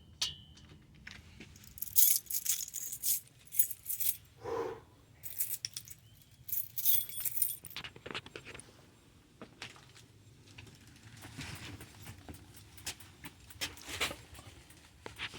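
Intermittent light metallic jingling and clicking, in short bursts through much of the stretch, like small hard objects being handled.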